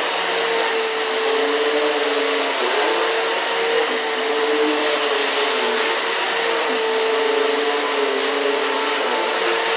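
Eureka PowerSpeed upright vacuum cleaner running steadily, a motor hum with a high whine, its lower notes dipping slightly every few seconds.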